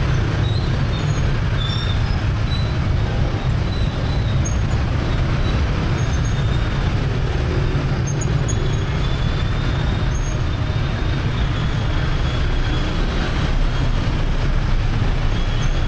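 Busy street traffic heard from a moving motorbike: a steady, dense low rumble of motorbike and vehicle engines and road noise, with faint brief high squeaks now and then.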